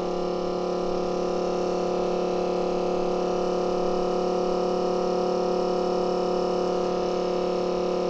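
A steady electrical hum made of several even pitched tones, unchanging.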